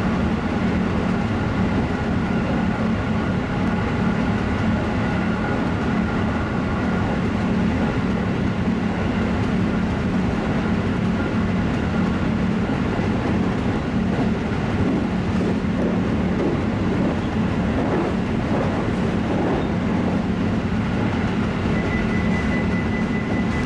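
Electric passenger train running at speed, heard from inside the front car: a steady running rumble with wheel-on-rail clatter. Near the end a steady high tone begins and holds.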